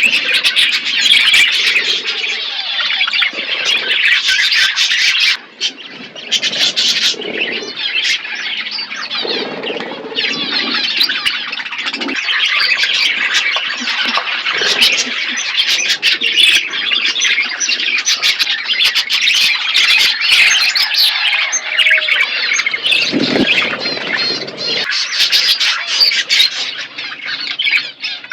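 Parrots chattering and squawking without a break, a dense run of harsh calls and short chirps, dropping off briefly about five seconds in.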